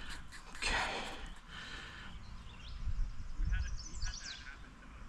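Outdoor background with a low rumble, a short rustle about half a second in, then a bird chirping in a quick run of short high notes about three and a half seconds in.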